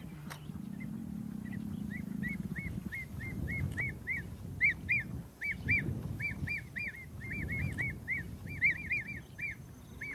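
A bird calling in a long series of short, arched notes, about four a second, that begin faintly and grow louder and quicker, over a low rumble.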